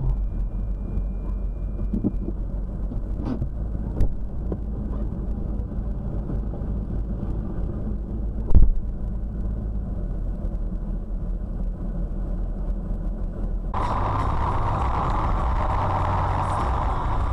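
Car driving, heard from inside: a steady road and engine rumble with a couple of sharp knocks, as from bumps in the road. Near the end a louder, brighter sound takes over.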